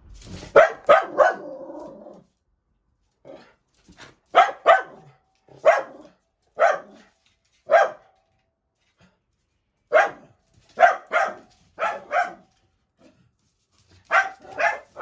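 A dog barking in quick clusters of two to four sharp barks, with pauses of a second or two between clusters. It is a frantic, worked-up fit of barking at a fly.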